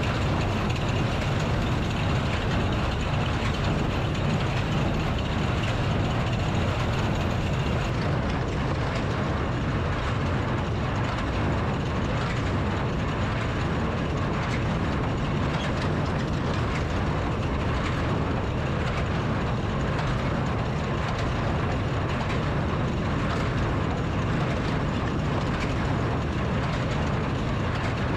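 Tractor and New Holland Super Hayliner 78 wire-tie square baler running steadily in the hay field. A low, even engine drone carries faint repeated knocks from the baler's mechanism.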